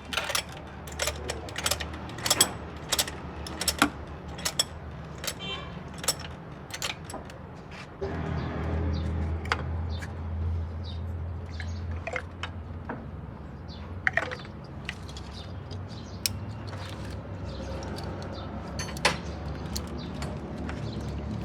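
Sharp clicks and taps of metal tools and parts being handled, several a second at times, during engine work. About eight seconds in a steady low hum starts and runs on under occasional clicks.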